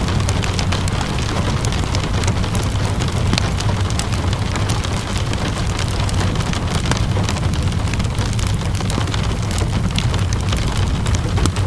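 Steady rainfall mixed with a crackling wood fire: an even wash of rain over a low rumble, with many small sharp pops and crackles scattered throughout.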